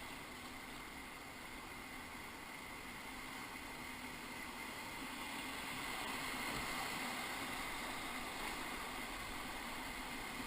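Whitewater rushing steadily around a raft running a rapid on the Ocoee River, swelling slightly about halfway through.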